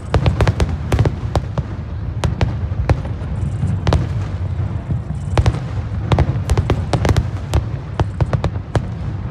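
Fireworks finale barrage: aerial shells bursting in rapid succession, sharp bangs several times a second over a continuous low rumble.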